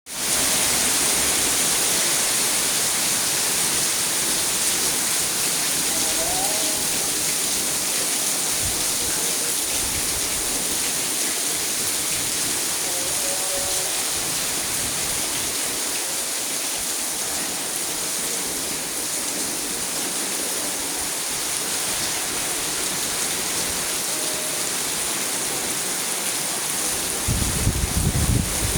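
Heavy rain falling steadily, a dense even hiss, with a brief low rumble near the end.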